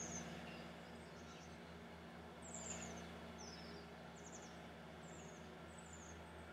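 Faint small-bird chirps: short, high notes sliding downward, about eight scattered through, over a steady low hum.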